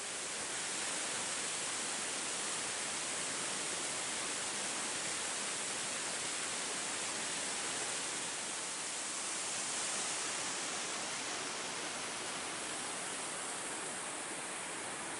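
Waterfall, its water rushing steadily in an even, unbroken hiss.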